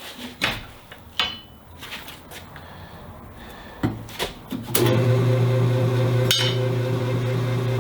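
Scattered metallic knocks and clicks of hand work on a wheel, then, about five seconds in, a tire-shop machine's electric motor starts and runs with a steady hum.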